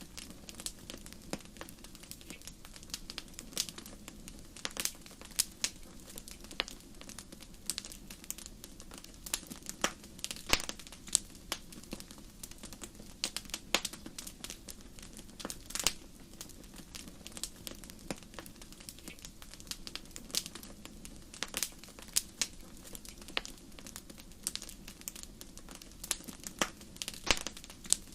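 Wood fire crackling: frequent sharp, irregular pops and snaps over a low steady hiss of the burning fire.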